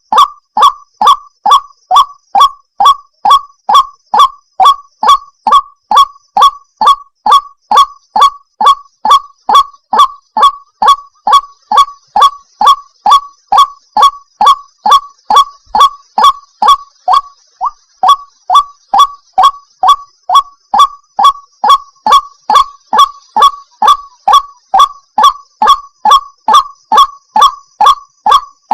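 White-breasted waterhen call repeated over and over, a short note that drops in pitch, about twice a second, with a brief break a little past halfway. It is a looped lure-call recording used to draw waterhens in.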